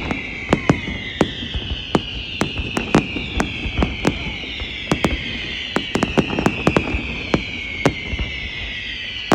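Large aerial fireworks display: a rapid run of sharp bangs, several a second, over a thick chorus of whistling shells, each whistle falling slowly in pitch.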